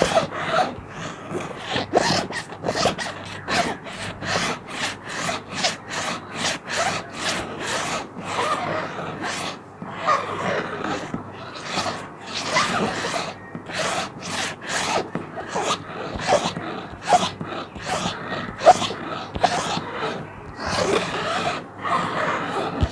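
A plastic sheet being scratched in quick, uneven strokes, a few a second, with dry scraping and crinkling.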